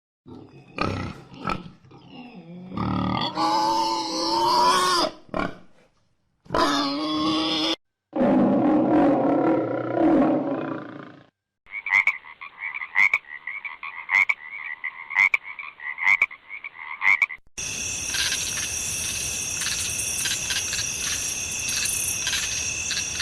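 A run of different animal sound effects, one after another. First come short cries and several longer pitched calls, then a high call pulsing several times a second for about six seconds, then a steady high-pitched buzz with held tones.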